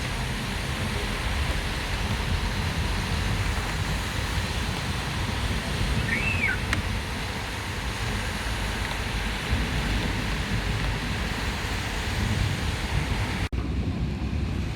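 Heavy rain in a storm, a steady hiss with gusting wind rumbling on the microphone. About a second before the end it cuts out for an instant and comes back with less hiss.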